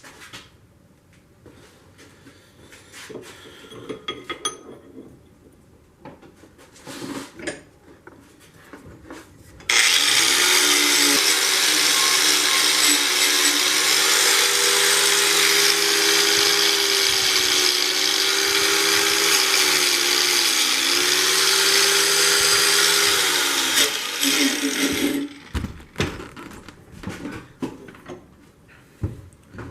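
Handheld power tool switched on and run steadily for about fifteen seconds, a loud whirring motor with a hiss over it, its pitch sagging and recovering slightly under load, then switched off. Small handling knocks and clicks come before and after it.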